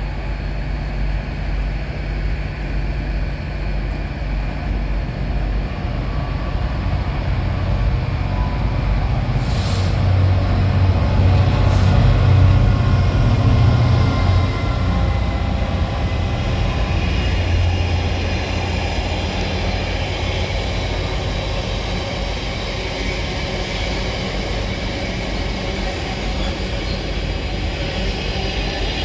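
Diesel train running in the station: a steady low rumble that grows louder about nine seconds in and eases off after about fifteen seconds, with two short hisses around ten and twelve seconds.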